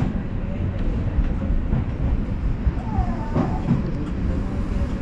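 Odakyu Line electric commuter train running, a steady low rumble of wheels on rails heard from aboard.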